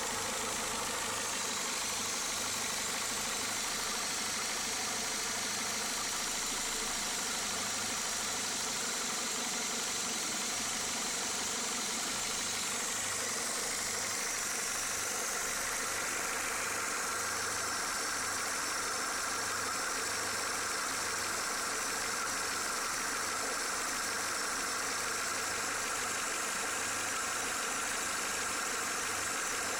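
Renault Clio Mk2 8-valve engine idling steadily, making the noise that appeared after its belt was changed.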